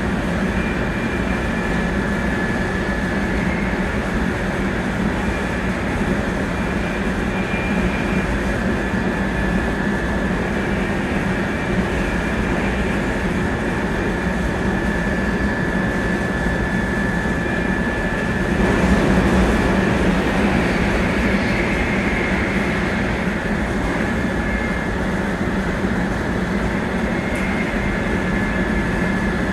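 700 series Shinkansen running at speed, heard from inside the car: a steady rumble and rush of wheels on rail with a faint steady high tone over it. The noise swells briefly about two-thirds of the way through.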